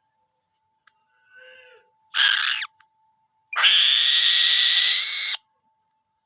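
Falcon calling: a faint short call, then a louder call about two seconds in, and a long harsh scream of nearly two seconds later on.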